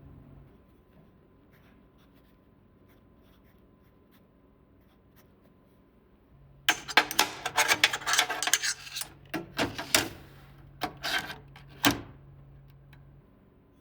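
A quiet stretch, then from about halfway in some five seconds of rapid clattering and clicking of hard objects being handled, with a faint steady hum beneath.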